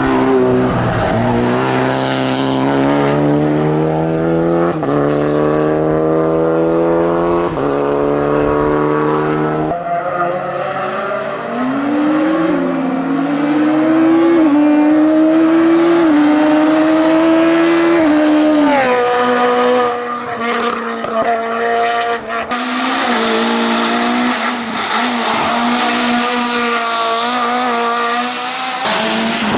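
Race car engine at full throttle accelerating hard through the gears, its pitch climbing and dropping back at each upshift about every two and a half seconds. From about ten seconds in, an engine revs up and down, then holds a steadier, lower note near the end.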